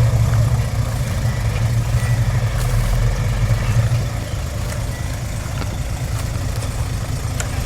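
Diesel engine of earthmoving machinery running steadily, with a low hum that eases slightly about four seconds in.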